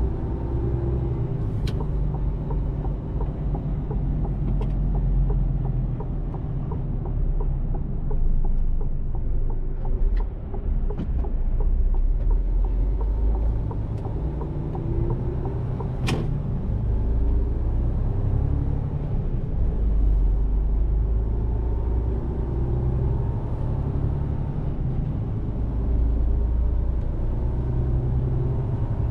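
Mercedes-Benz Actros truck on the move: a steady low rumble of diesel engine and road noise. Scattered light clicks, and one sharp click about halfway through.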